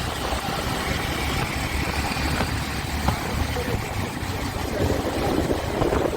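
Bajaj Avenger 160 motorcycle running while being ridden, its engine a steady low drone under a rushing haze of wind on the microphone.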